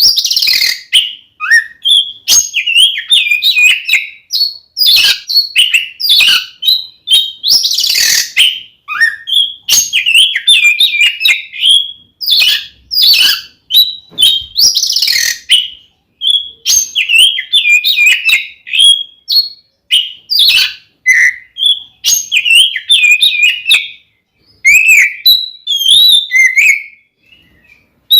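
Oriental magpie-robin (kacer) singing a loud, unbroken run of quick whistled and chirped phrases mixed with harsh scratchy notes. This is the aggressive 'fighting' song style that kacer keepers use to provoke other males.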